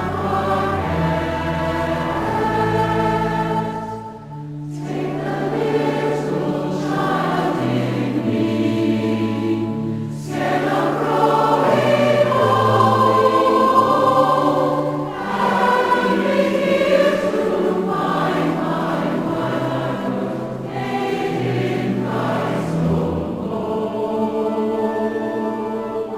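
Choir singing a hymn in held notes, with short breaks between phrases about four and ten seconds in.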